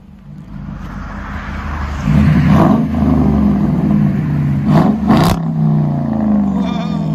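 Dodge Durango's 5.7 L HEMI V8 exhaust, rear resonators deleted and factory mid muffler kept, growing louder over about two seconds as the SUV comes back under power. It stays loud with a few short blasts, then drops in pitch near the end.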